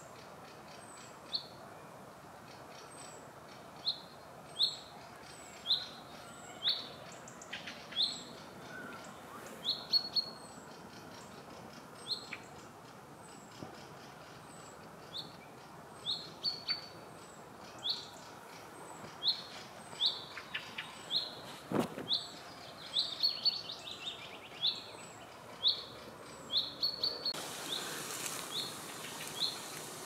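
A songbird repeats a short, high, rising chirp about once a second, with fainter calls and snatches of song from other birds around it. A steady hiss comes in near the end.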